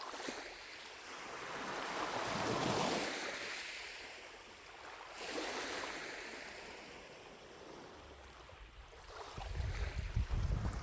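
Small lake waves washing onto the shore in slow swells, one building and falling about two to three seconds in and a softer one a few seconds later. Near the end, wind buffets the microphone with a fluttering low rumble.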